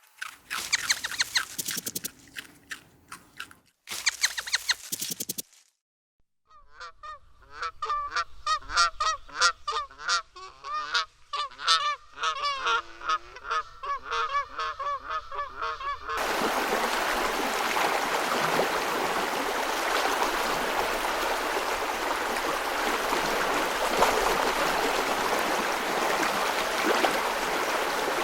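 Short clicks and taps. After a brief gap comes a flock of domestic waterfowl calling, with many short honks overlapping. It cuts abruptly to steady rushing water for the last twelve seconds or so.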